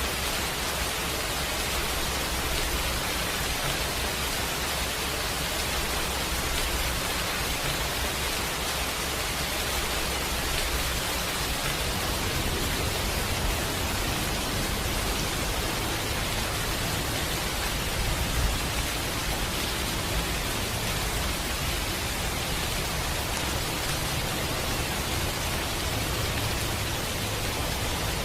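Steady rain, an even hiss across the whole range, with a low rumble underneath that grows stronger about twelve seconds in.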